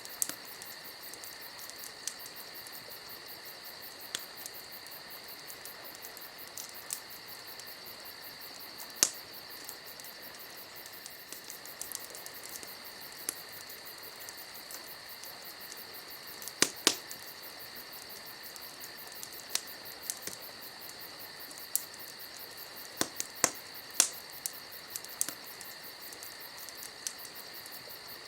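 Campfire crackling with scattered sharp pops, the loudest about 9, 17 and 24 seconds in, over steady cricket chirping.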